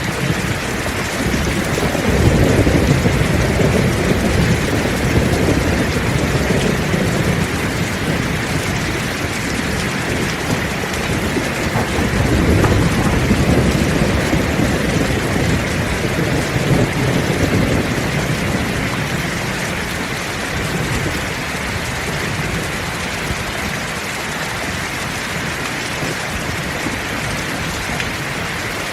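Heavy rain falling steadily, with low rolls of thunder swelling about two seconds in, again around twelve seconds, and once more a few seconds later before fading.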